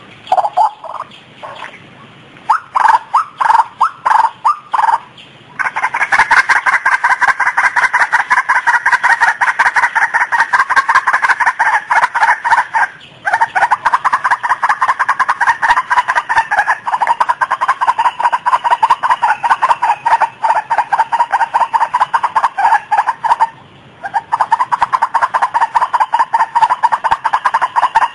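White-breasted waterhen (ruak-ruak) calling. A few separate loud notes come first, then from about five seconds in a fast, unbroken run of repeated notes, which pauses briefly twice.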